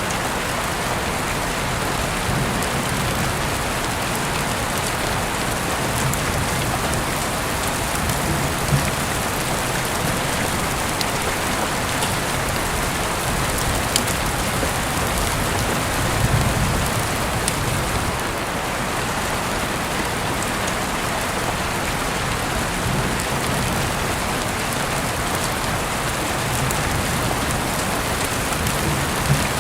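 Heavy rain falling steadily, heard through an open window, with a few sharp drips or taps standing out now and then.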